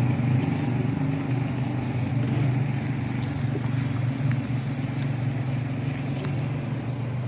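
A motor vehicle's engine running steadily at close range, a low, even hum.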